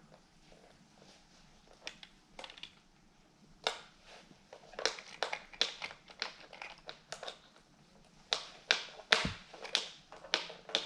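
Plastic toys knocking and clattering as they are handled: scattered sharp clicks and taps, growing busier about four seconds in, with one heavier thump about nine seconds in.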